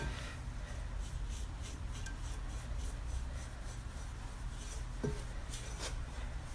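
Faint rubbing and scattered light ticks over a low steady hum, with a slightly sharper tick about five seconds in.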